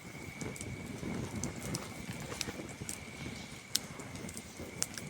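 Campfire burning with a low crackle and a few sharp pops from the wood, over a steady high trill of crickets.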